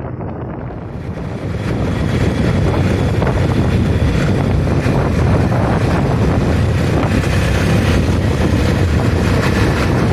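Heavy wind noise buffeting the microphone while riding a motorcycle. It grows louder about a second and a half in, then holds steady.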